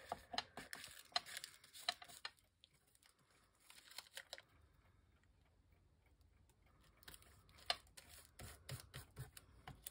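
Faint, scattered clicks and rustles of paper and card being handled, busier at the start and again near the end with a quieter stretch in between.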